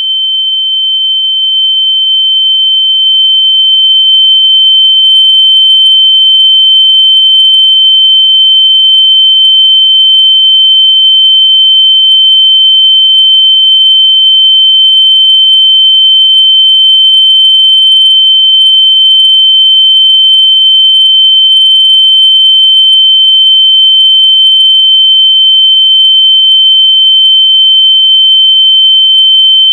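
Loud, steady, high-pitched electronic sine tone, held unbroken and swelling a little over the first few seconds: a 'very loud noise' meant to be played through lost AirPods so they can be found by ear.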